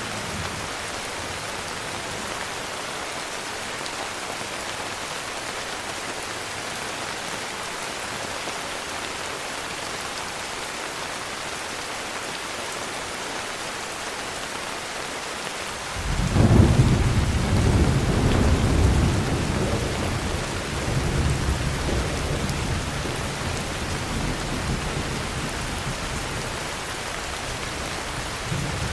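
Steady heavy rain falling, then about halfway through a roll of thunder breaks in suddenly with a deep rumble that peaks for a few seconds and slowly dies away under the rain.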